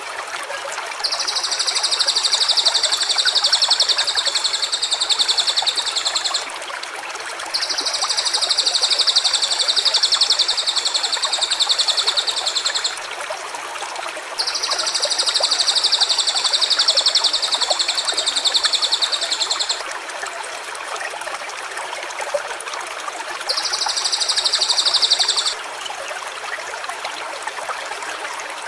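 Steady rush of a stream, with a high, rapidly pulsed buzzing call repeated four times in long stretches of two to six seconds each.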